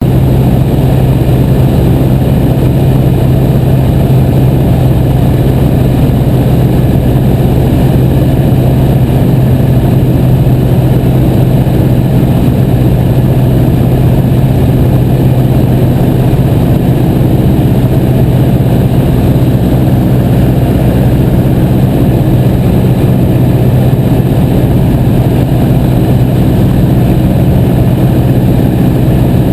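Piper J-3 Cub's Continental A-65 flat-four engine and propeller running steadily: a loud, even drone with a strong low hum that stays the same throughout.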